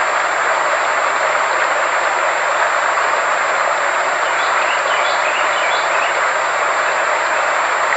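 Sound-therapy track: a steady, even rushing noise with a constant high-pitched tone held over it, and a few faint short chirps about halfway through.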